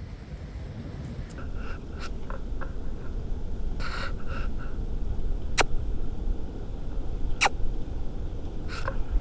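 Steady low wind rumble on the microphone, with a few short chirps in the first half and three sharp, brief high clicks in the second half.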